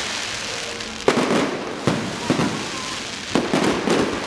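Fireworks going off: a string of sharp bangs, roughly one every half second to a second, each followed by crackling.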